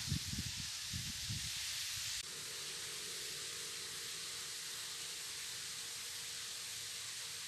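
Steady outdoor hiss, with low rumbling bumps during the first two seconds. About two seconds in it changes abruptly, as at a cut, to an even hiss with a faint low hum.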